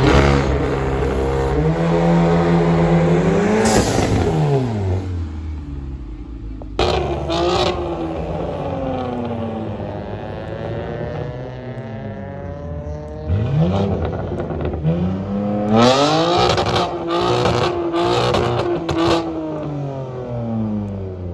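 Performance car engines revving and accelerating hard, the engine note climbing and dropping sharply several times. Sharp exhaust cracks come about seven seconds in and in a cluster near the end.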